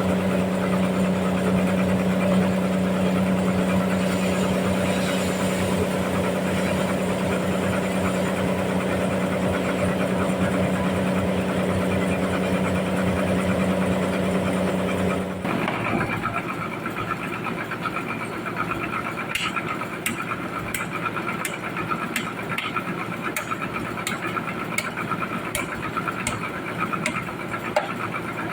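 Sawmill machinery running steadily with a low hum. About halfway the hum stops abruptly and a higher steady whine takes over, with light ticks a little over once a second.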